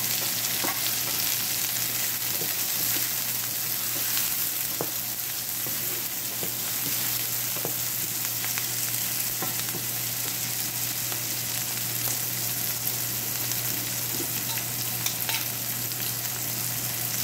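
Chopped onions, tomatoes and green chilies sizzling steadily in a nonstick frying pan, stirred with a wooden spatula that gives occasional light knocks and scrapes against the pan.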